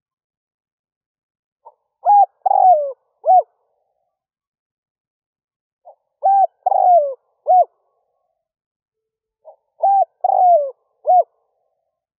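Spotted dove cooing: three phrases about four seconds apart, each a faint short note followed by three clear coos, the middle coo longer and falling in pitch, with silence between phrases.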